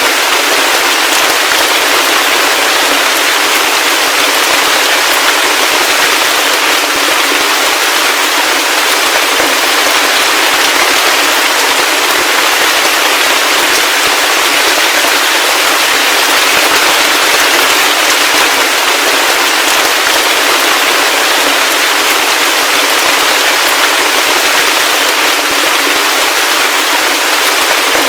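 Heavy rain falling steadily: a dense, even hiss of drops with no deep rumble beneath it.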